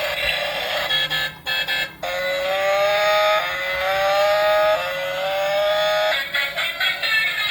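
Electronic alarm-like tone rising in pitch three times in a row, each rise lasting just over a second, following a short stretch of background music.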